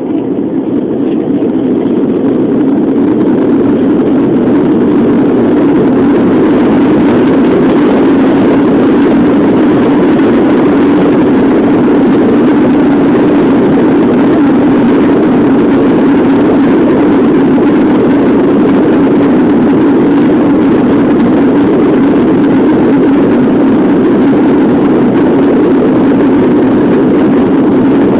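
Airbus A330 jet engines at takeoff power, heard from inside the cabin as a loud, steady roar that builds over the first few seconds and then holds level.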